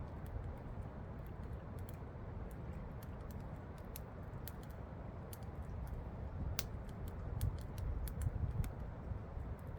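Campfire crackling, with irregular sharp snaps and pops that come more often in the second half, over the steady low rush of a waterfall.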